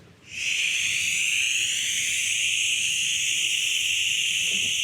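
The triple heater healing sound of Taoist Six Healing Sounds qigong: one long whispered, breathy "heeee" let out on a single exhale, starting about a third of a second in and held steadily through.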